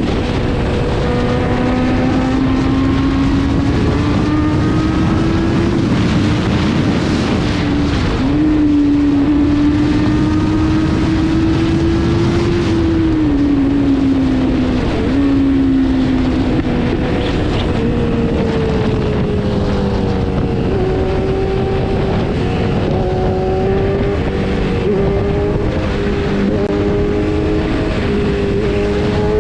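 Kawasaki Z900 inline-four engine pulling hard under a rider, its pitch climbing through each gear and falling sharply at several upshifts, over a heavy rush of wind noise.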